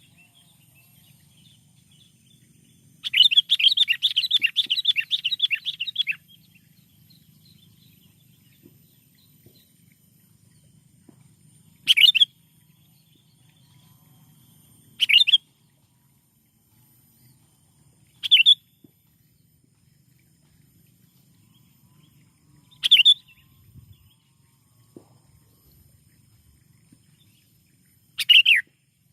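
Sooty-headed bulbul (kutilang) calling: a rapid chattering phrase of about three seconds near the start, then five short, sharp calls spaced several seconds apart.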